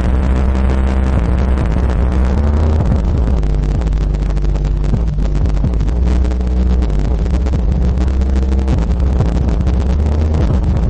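Two Hinor Cruzader 12.1 subwoofers in a ported enclosure playing an R&B song very loud, with deep bass notes dominating and the recording overloaded and noisy.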